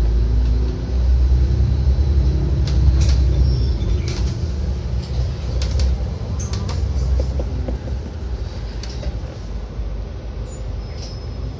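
City bus in motion heard from on board: a steady low engine and road rumble with scattered rattles and clicks.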